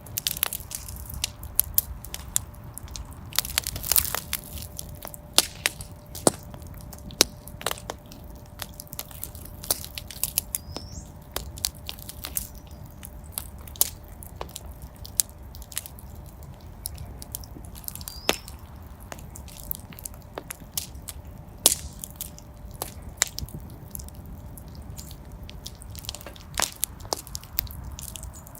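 Fire burning in a fireplace: irregular sharp crackles and pops over a steady low rumble of the flames. A faint steady tone runs under it most of the way through, and there are two brief high chirps.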